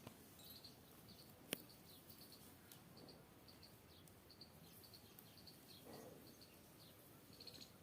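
Near silence with faint, short high-pitched chirps repeating several times a second, and one sharp click about a second and a half in.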